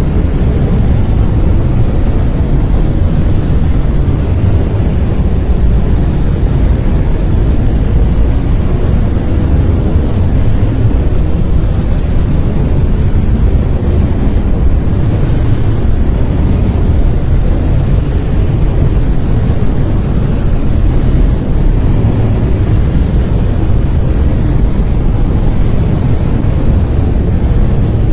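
Brown noise: a steady, loud, deep rumbling hiss that is strongest in the bass and thins out toward the treble, with no changes or events.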